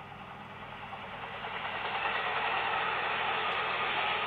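Electric commuter train approaching and passing close at speed. The noise of its wheels on the rails builds over about two seconds, then stays loud and even as the cars go by.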